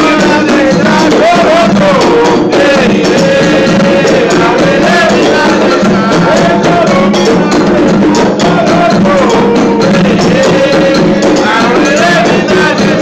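Candomblé ritual chant for Xangô: singing over continuous hand percussion and drums.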